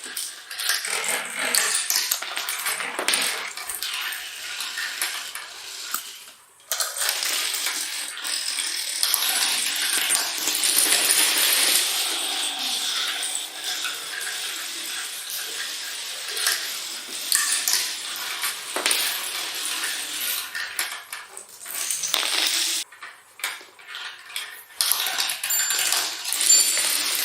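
Domino tiles clattering and clicking against each other and a hard surface in quick, irregular runs, with a few brief pauses.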